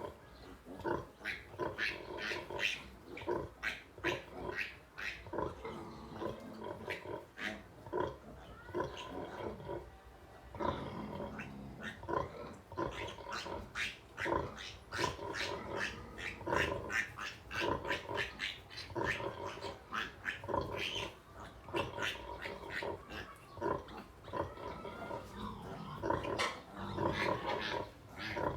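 A sow and her two-day-old piglets at nursing time, making a steady run of short grunts and squeals, several a second.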